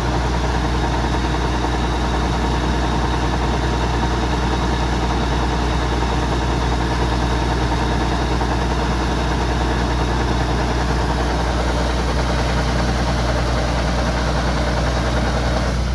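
Kubota DC-105X combine harvester running steadily: a low diesel engine drone with a dense mechanical hiss over it.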